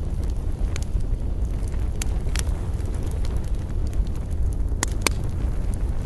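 Wood campfire crackling, with several sharp pops and snaps, the loudest about two and a half seconds in and twice near the end, over a steady low rumble of wind.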